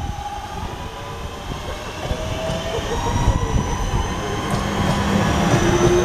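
A train approaching, getting steadily louder, with a low rumble under several thin whining tones that rise slightly in pitch.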